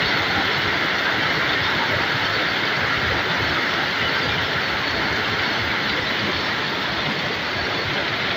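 Heavy rain pouring down steadily onto the street and parked cars, a dense, even wash of sound that holds at one level throughout.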